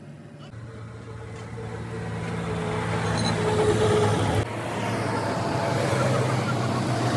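A road vehicle's engine running steadily with traffic noise, growing louder over the first few seconds, with a sudden drop about four and a half seconds in.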